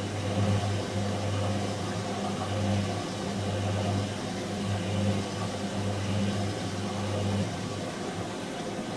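Whirlpool H-axis top-loading washing machine running, with a steady low electrical hum that stops near the end.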